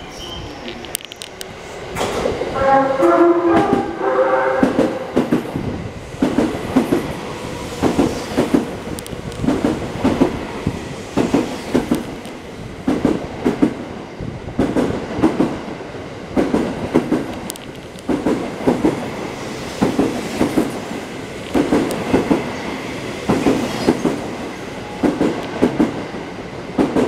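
285-series Sunrise Express electric sleeper train passing through a station: its music horn plays a short stepped melody about two seconds in. Then comes a steady clickety-clack as the wheels of each car cross the rail joints, about one group of clicks a second.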